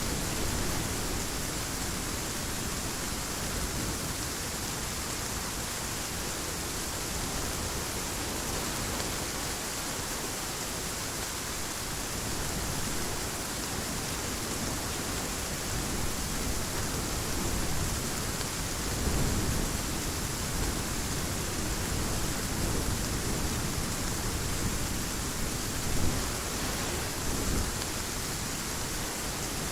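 Heavy rain falling steadily, with low rolls of thunder swelling in the second half and a brief louder peak of thunder near the end.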